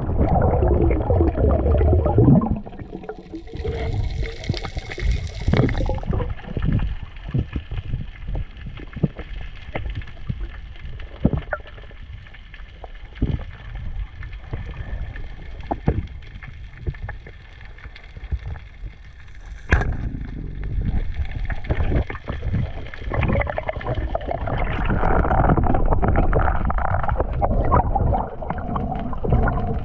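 Choppy sea water sloshing and gurgling around the camera, with scattered short knocks and splashes; louder at the start and again near the end.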